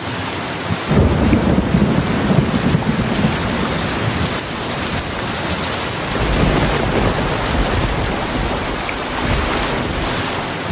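Heavy rain pouring steadily, with a low rolling rumble of thunder that sets in about a second in and swells again in the second half.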